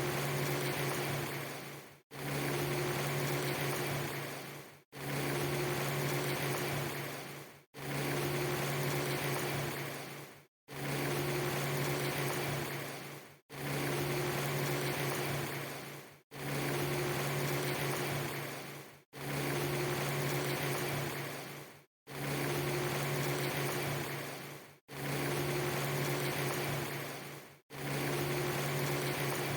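A steady low hum over even hiss, a short clip played on a loop: it cuts off to silence briefly about every three seconds and starts again, ten times over.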